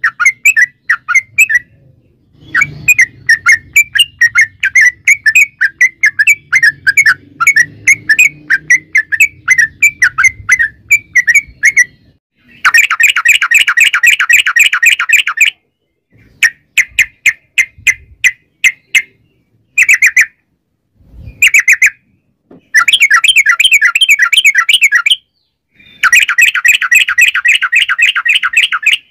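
Yellow-vented bulbul (trucukan) singing a long rapid chatter: fast runs of repeated notes, broken into bursts of a second or more with short gaps between them.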